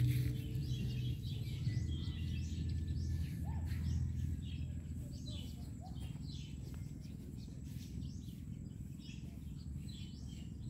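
Small birds chirping repeatedly over a steady low rumble. A low steady hum fades out about halfway through.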